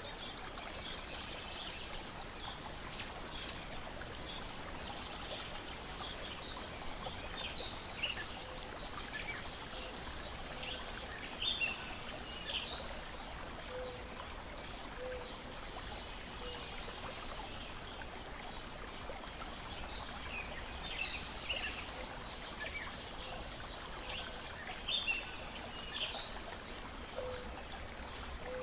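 Lake water lapping and splashing in a steady wash, with small birds chirping on and off throughout.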